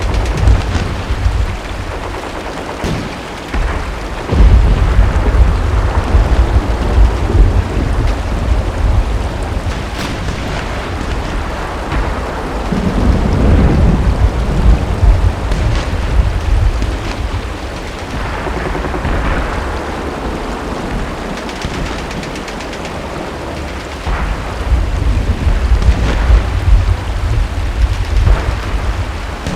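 Steady heavy rain with scattered gunshots and machine-gun fire, under several long, low rumbles of thunder and distant artillery lasting a few seconds each; the heaviest rumbles come about four seconds in and again near the end.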